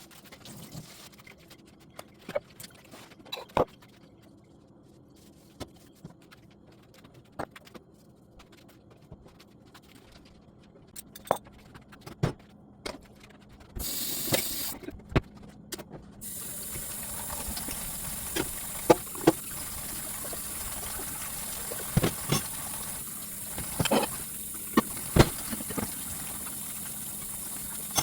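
Kitchen clatter of dishes and utensils, sharp knocks and clinks, then from about 16 s a steady rush of running water with more clinks over it.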